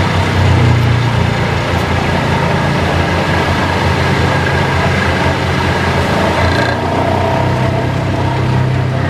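Excavator-mounted telescopic vibratory hammer running steadily while driving a steel sheet pile, with the excavator's diesel engine under load beneath it. The sound is a continuous heavy drone with a rapid pulsing buzz. About seven seconds in, the higher hiss drops away.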